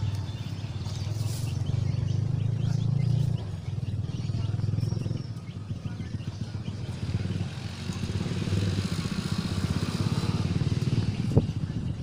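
A small engine running steadily with a low, fast-pulsing hum, and a single sharp knock near the end.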